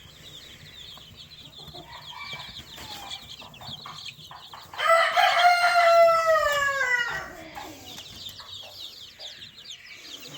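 A rooster crows once, loudly, about five seconds in: one long call of a couple of seconds that falls slightly in pitch and trails off lower at the end. Under it, young poultry chicks keep up a steady high peeping.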